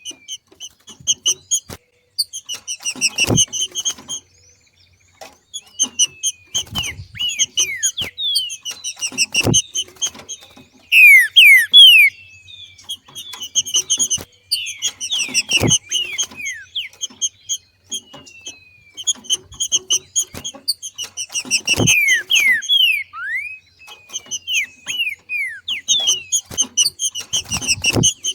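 Green-winged saltator (trinca-ferro) giving its 'macheado' call: bursts of rapid, clipped high notes every six seconds or so, mixed with short downslurred whistles. The loudest burst comes near the middle. A low thump accompanies each burst.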